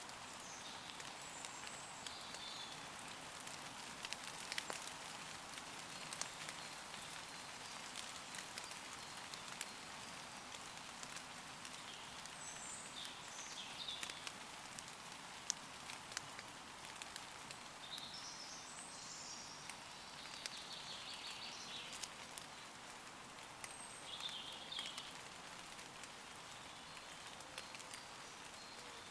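Gentle rain falling on leaves: a steady patter with many separate drop ticks. Woodland birds sing short, high phrases every few seconds.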